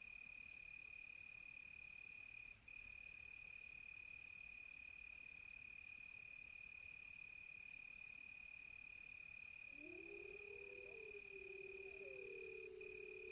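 Crickets trilling in one steady, unbroken high tone, with a faint higher insect hiss. About ten seconds in, distant wolves start howling: long, wavering, overlapping howls that rise and fall in pitch.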